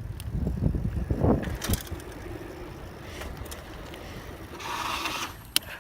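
Bicycle in motion with wind rumble and camera shake on the microphone, then a short hissing skid of the rear tyre on pavement as the rider drifts near the end, followed by a sharp click.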